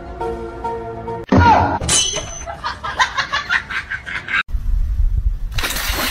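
Light string music at first, then a stretch of quick sharp pulsing sounds, about four a second. Near the end comes a burst of loud water splashing as a dog thrashes through water.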